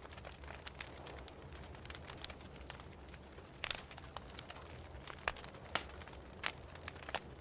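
Wood fire crackling in a fireplace: irregular sharp pops and snaps, several louder ones from about halfway in, over a steady low rumble.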